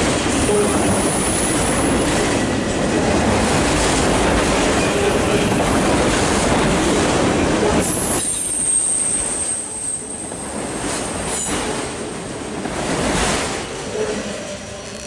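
Loaded autorack freight cars rolling past at close range: a steady, loud rumble of steel wheels on rail with thin, high wheel squeals. The noise drops and thins about eight seconds in, with a few sharp clicks, and fades as the last car goes by near the end.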